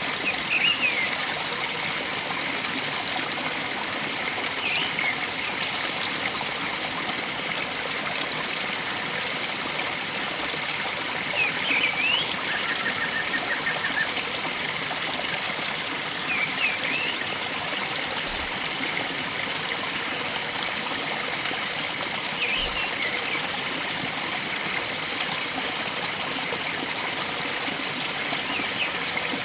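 Steady rush of flowing water, with a bird giving a short call about every five seconds and a brief trill a little before halfway.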